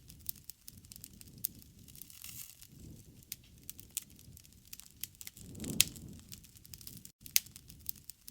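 Campfire burning: wood crackling and popping in sharp, irregular snaps over a low, soft rush of flame, with one louder swell of flame noise about five and a half seconds in.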